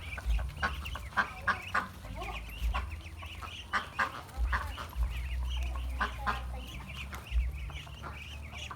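A flock of domestic poultry calling, with many short, overlapping clucking calls coming irregularly, over a low rumble underneath.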